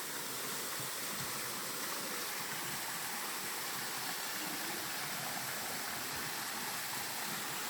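Small waterfall splashing steadily, a constant hiss of falling water.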